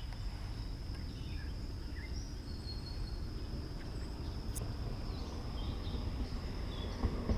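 Outdoor lakeside ambience: an insect holds a steady high-pitched trill, a few faint bird chirps come and go, and a low steady rumble sits underneath.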